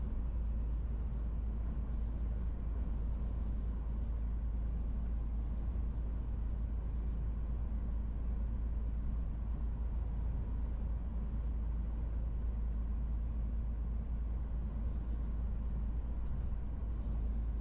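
MAN TGX 18.470 truck's straight-six diesel running steadily under way, a deep, even rumble with road noise and no change in engine speed.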